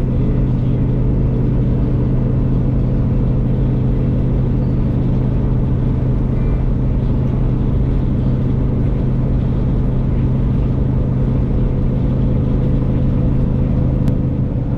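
Semi-truck's diesel engine running at a steady cruise, with road noise: an even low drone that holds the same pitch throughout.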